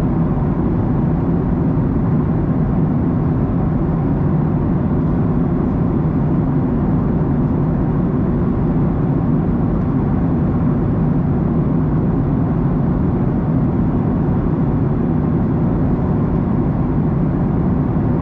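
Steady roar inside the cabin of a Boeing 737-900ER in flight: engine and airflow noise from its CFM56-7B turbofans, heard from a rear window seat. The sound is even and deep, with no change through the stretch.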